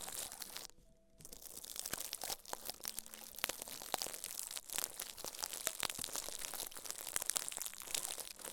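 Dense crinkling and crackling of something handled close to the microphone, with a brief pause about a second in.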